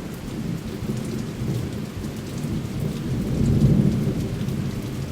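Rain falling in a thunderstorm, with scattered drop ticks and a low rumble of thunder that swells about three and a half seconds in.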